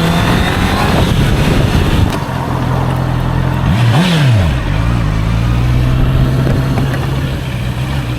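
Honda CBR650R's inline-four engine running at steady revs under way, over a broad rush of wind noise, with one quick rev up and back down about four seconds in.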